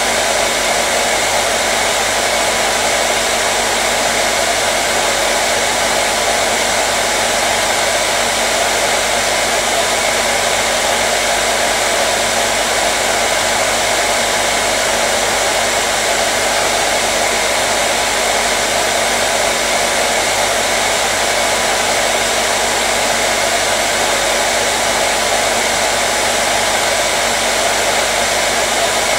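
Hair dryer running steadily: an even, unchanging rush of blown air with a low motor hum beneath it, played as white noise to soothe a colicky baby.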